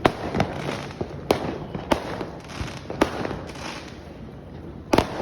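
Fireworks going off: sharp bangs at uneven intervals of roughly half a second to a second over steady crackling, thinning out after about three seconds before a close pair of bangs near the end.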